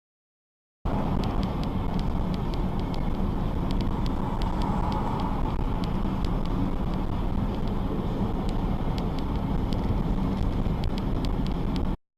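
Steady road noise of a car driving: a low rumble with faint scattered ticks. It starts abruptly about a second in and cuts off just before the end.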